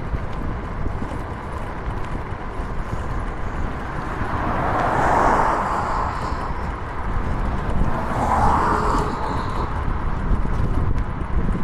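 Steady road and wind rumble while riding a scooter in traffic, with two vehicles passing, each swelling and fading, around five and eight seconds in.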